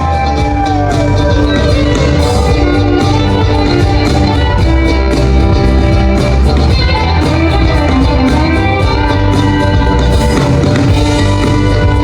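Live band playing a rock song, a loud, steady full mix with guitar.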